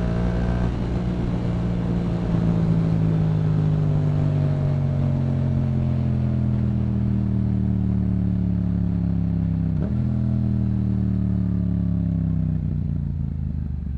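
Yamaha MT-07's 689 cc parallel-twin engine through a Yoshimura exhaust, revs falling slowly as the bike rolls off the throttle, with a quick gear change about ten seconds in. The revs then fall again and the sound fades away at the end.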